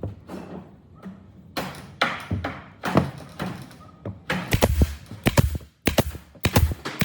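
Irregular knocks and thuds of wood being struck or handled, sparse at first, then a quicker run of heavier thuds from about four and a half seconds in.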